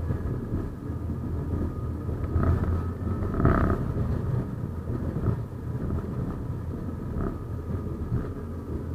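71-931M Vityaz-M low-floor tram running along the track: a steady low rumble with faint high-pitched squeals, and a louder jolt about three and a half seconds in.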